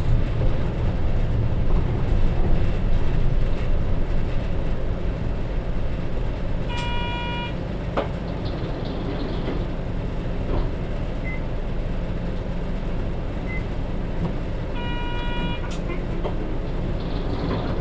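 Hino bus's J07E diesel engine running steadily under way, heard from inside the cabin. Twice, about 7 and 15 seconds in, a short electronic chime sounds over it.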